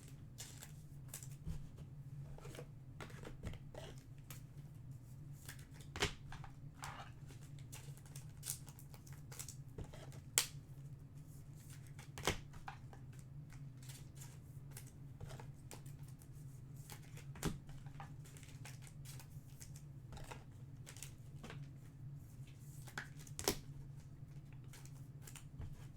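Trading cards being handled and slipped into plastic sleeves: soft rustling with scattered clicks and taps, a few of them sharper, over a steady low hum.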